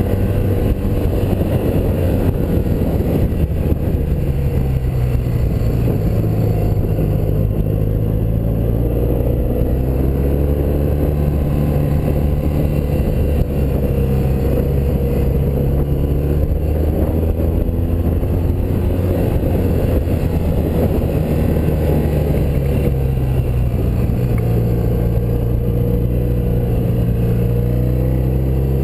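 BMW R100RS's air-cooled flat-twin boxer engine running on the move, its pitch slowly rising and falling as the revs change.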